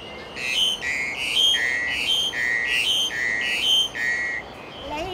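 A bird's whistled call: a higher note followed by a lower one, repeated about five times, over a faint steady hiss.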